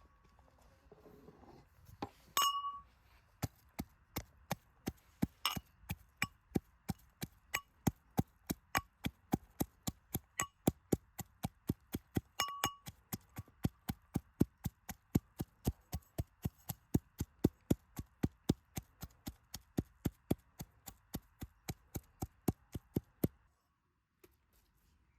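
Sharp, evenly paced clinks, about three a second, that stop abruptly near the end, with a louder ringing metallic clink near the start and another about halfway through.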